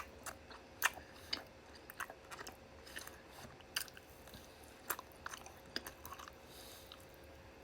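Close-miked chewing of chicken skewer meat: irregular wet mouth clicks and smacks, a few a second, dying away near the end.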